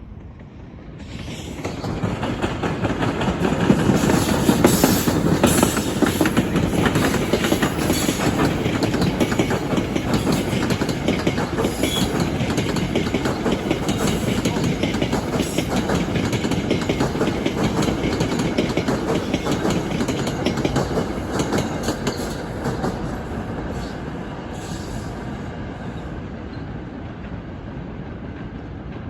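Train passing close by, its wheels clacking over the rail joints with some faint squeal. It builds up about a second in, stays loud for about twenty seconds, then fades away.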